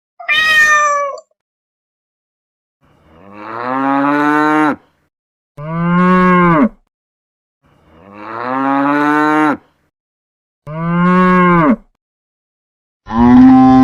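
A cat's short meow right at the start, then a cow mooing four times with pauses between, a fifth, longer moo starting near the end.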